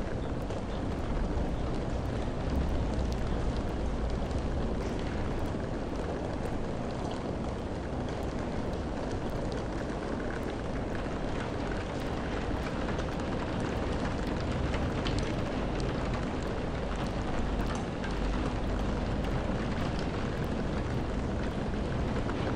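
Steady rainfall, a constant hiss with many individual drops ticking on a surface.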